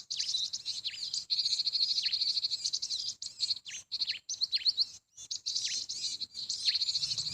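Small songbirds chirping in quick, dense series of high notes, several sliding sharply downward.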